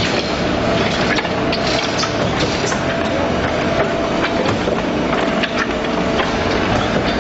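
Truck-mounted concrete mixer pump running: steady machinery noise with irregular clanks and rattles.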